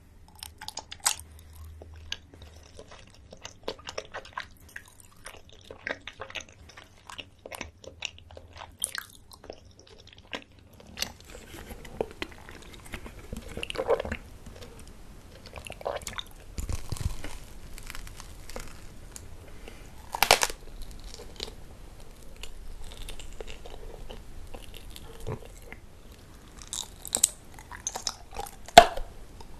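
Close-miked eating sounds of a person biting and chewing jelly and gummy candy: many sharp wet clicks and smacks, with occasional crunches. The background changes about eleven seconds in, and the bites grow louder near the end.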